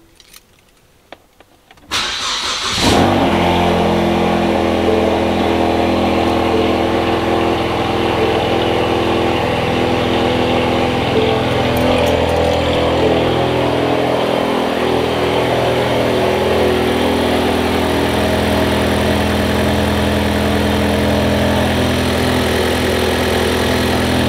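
Ford Mustang EcoBoost's 2.3-litre turbocharged four-cylinder started after a brief crank about two seconds in, then idling steadily. This is the first start after replacing the fuel-rail pressure sensor.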